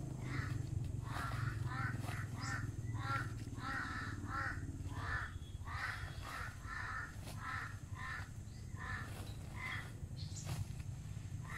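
Bird calls: a run of short calls about two to three a second, thinning toward the end, over a low hum that fades out about halfway through.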